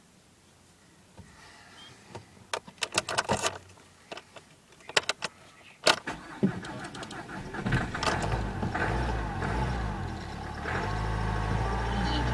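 Clicks and rattles, then the 2011 Nissan Qashqai's 1.5 dCi four-cylinder turbodiesel cranks and starts from cold about six and a half seconds in. It settles into running with a steady whine over the engine note, the strange sound the owner is showing; the sound steps up a little near the end.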